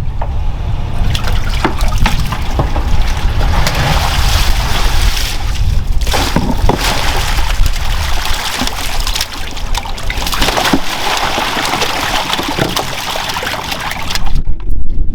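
Running water splashing and trickling, starting about a second in and cutting off near the end, over a low rumble of wind on the microphone.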